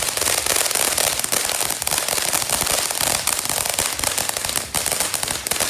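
Many firecrackers and fireworks going off at once: a dense, non-stop crackle of rapid sharp pops with no pause.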